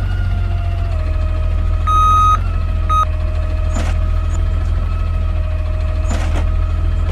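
Side-loader garbage truck running, its engine humming with a steady whine over it, then an electronic beep of about half a second about two seconds in and a short second beep a second later. A couple of faint knocks come later.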